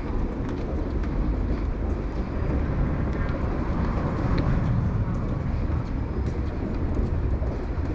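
Train rumbling across the Sumida River railway bridge, a steady low rumble with faint ticks.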